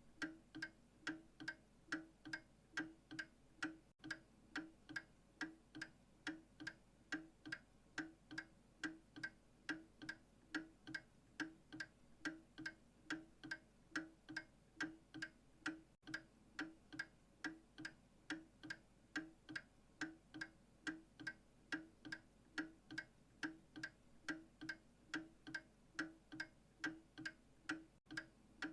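A clock ticking steadily at about two ticks a second, each tick a short, sharp click.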